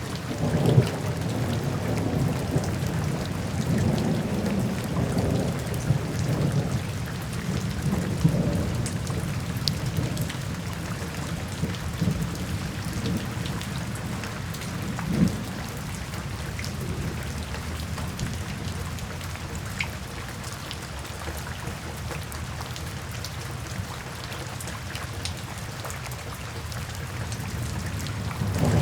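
Steady rain falling, with low thunder rumbling through roughly the first half, a brief sharper crack at about fifteen seconds, then a calmer stretch of rain alone before the thunder swells again at the very end.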